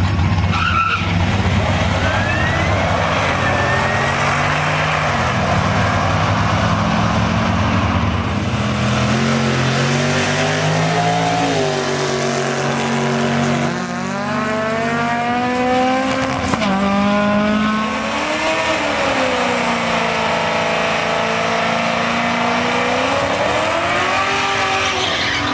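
Drag-racing cars' engines revving hard and accelerating down the strip, the engine note rising and falling in pitch several times.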